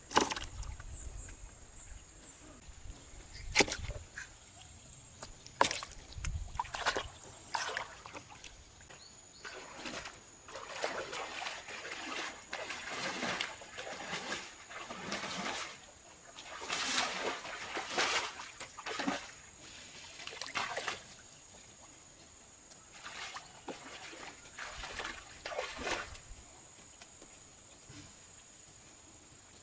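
Water splashing and sloshing in irregular bursts, with several sharp knocks, the loudest near the start and about 3.5 s and 5.5 s in.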